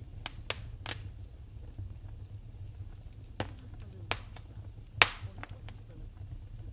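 Wood fire in a fireplace crackling, with scattered sharp pops, the loudest about five seconds in, over a low steady rumble.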